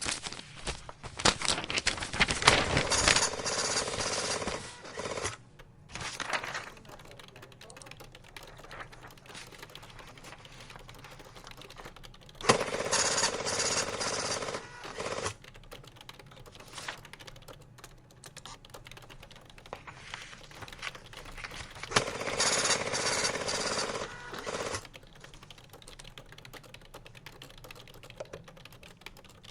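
Computer keyboard typing, with three stretches of rapid dense clattering about ten seconds apart and lighter scattered key clicks between them.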